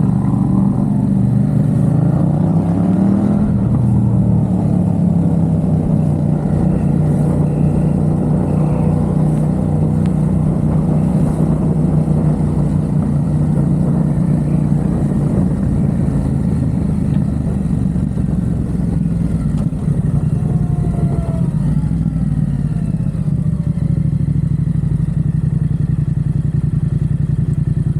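Yamaha XSR700's parallel-twin engine through a MiVV aftermarket exhaust, under way on the road: the revs climb over the first few seconds, then it runs at a steady cruise.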